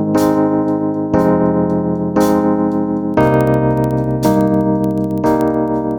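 Background music: slow piano chords, a new chord struck about once a second.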